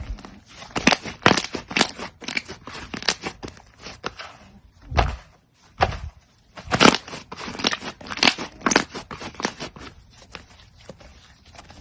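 Crunchy slime being handled and squeezed, giving dense, irregular crackling pops and crunches, with a short pause about five seconds in.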